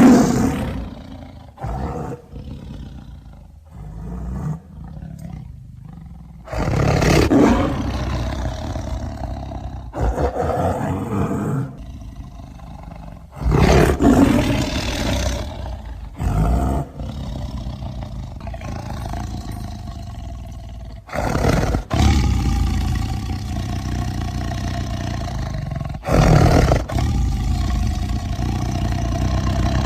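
A string of separate big-cat roars and growls, edited one after another with short gaps. Some are brief and some run for several seconds, including one long low growl past the middle.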